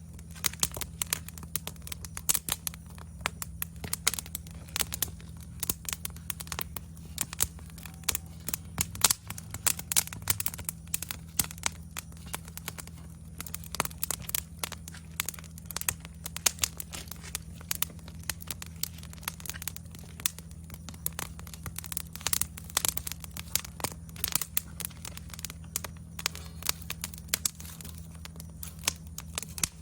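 Wood campfire crackling: a dense, irregular run of pops and snaps, over a steady low hum.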